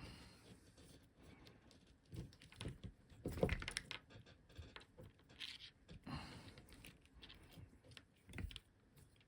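Irregular small clicks, taps and rustles of small parts and tools being handled at a workbench, with the loudest cluster about three and a half seconds in.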